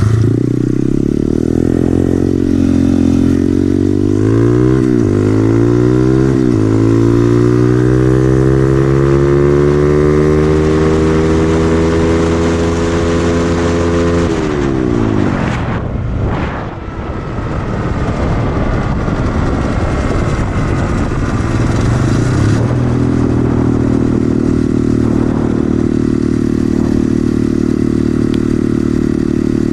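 2013 SSR 110cc pit bike's four-stroke single with an FMF exhaust, run wide open. It revs up through quick gear changes in the first several seconds, then climbs steadily in pitch for about seven seconds before the throttle is shut off. A stretch of rushing noise follows, then the engine settles into a steady, even run from about two-thirds of the way through.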